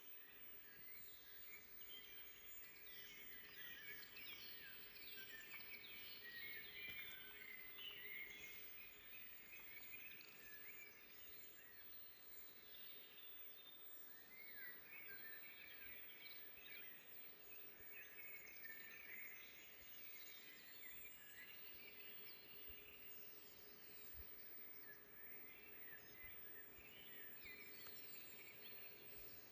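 Faint chorus of several forest songbirds, many short overlapping chirps and trills throughout, over a soft background hiss and a faint steady low hum.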